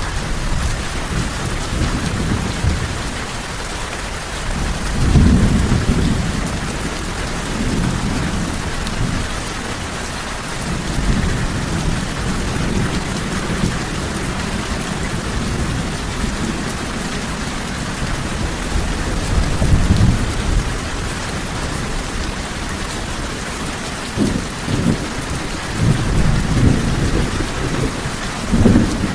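Steady heavy rain falling, with low rolls of thunder swelling up several times, the strongest about five seconds in and near the end.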